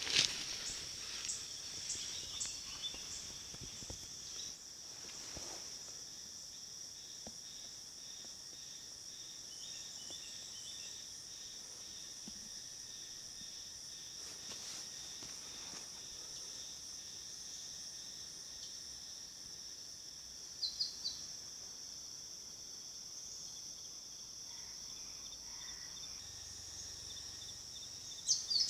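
Steady high-pitched drone of insects. A few short bird chirps come about two-thirds of the way in and again near the end.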